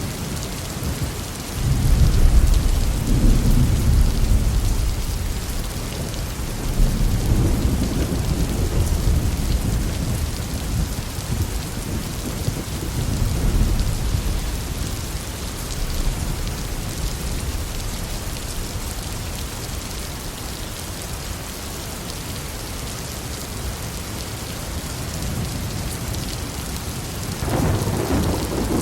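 Heavy rain falling steadily, with thunder rumbling deep and low in several rolling waves, the strongest about two seconds in, and a new rumble starting near the end.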